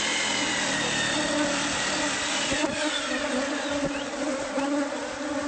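A swarm of honeybees buzzing around an opened hive, a dense, wavering hum of many wings that never stops.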